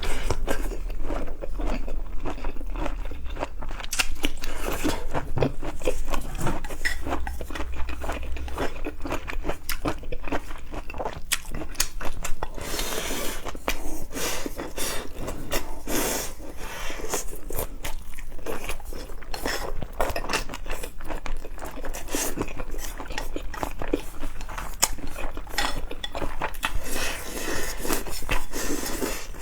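Close-miked eating: a person biting, crunching and chewing seafood in a dense, irregular run of wet crackles and clicks.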